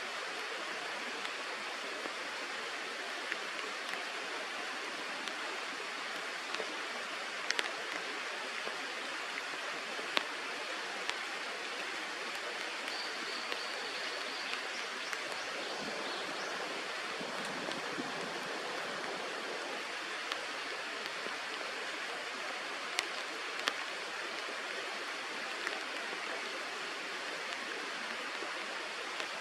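Steady rush of flowing river water, with a few faint ticks and a brief thin high note about halfway through.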